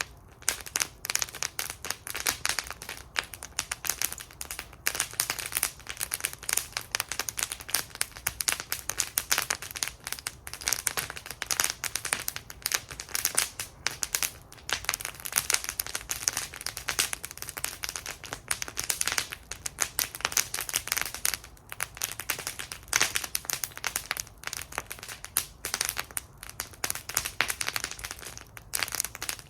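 Wood fire in a fire bowl crackling, with dense irregular pops and snaps.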